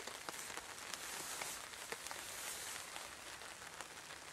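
Scattered drops pattering on a tarp overhead, many small irregular ticks over a faint hiss, with soft rustling of nylon hammock fabric as someone settles into the hammock.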